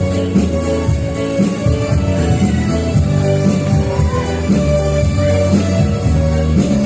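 Women's choir song with instrumental accompaniment and a steady beat.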